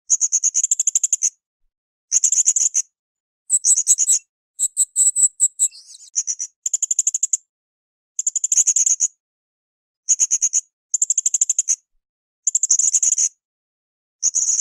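Blue-crowned hanging parrot (srindit) calling: about ten short bursts of very high-pitched, rapid chattering trills with silent gaps between them, and a few thin whistled notes near the middle.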